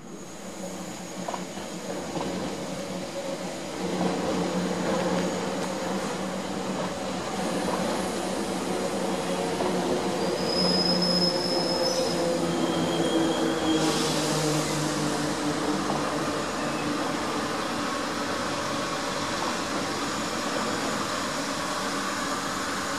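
Double-deck suburban electric train passing on the tracks: a steady motor hum and rolling rumble that builds about four seconds in, with brief high wheel squeals near the middle.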